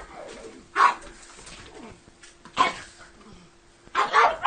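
Small dog barking: single sharp barks spaced well apart, then two in quick succession near the end.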